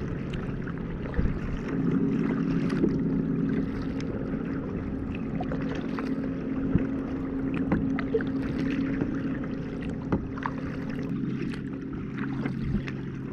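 Kayak paddling on a lake: paddle strokes dipping and dripping water, with scattered small knocks and splashes over a steady low hum.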